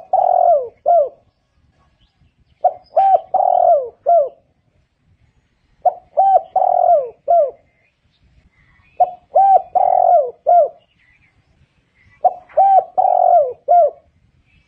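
Spotted dove cooing: a repeated phrase of four or five notes with one longer, louder note in the middle, given about every three seconds.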